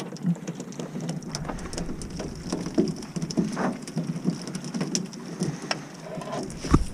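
Freshly caught Pacific herring flapping and slapping, an irregular patter of small wet taps, with one sharper knock near the end.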